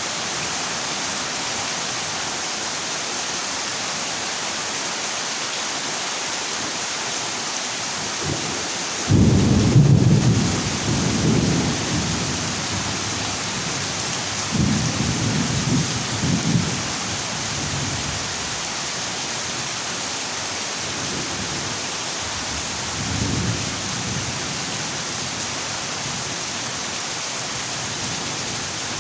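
Heavy rain drumming steadily on a corrugated zinc roof, an even hiss throughout. Thunder rumbles in loudly about nine seconds in and runs for a few seconds, rumbles again around fifteen seconds, and once more, fainter, a little past twenty seconds.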